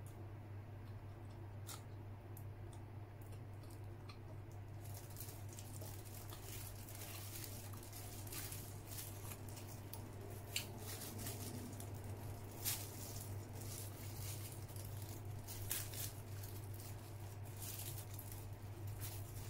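Close-up chewing and moist mouth clicks while eating a soft cream bun, starting about a quarter of the way in, with a few sharper clicks along the way, over a steady low hum.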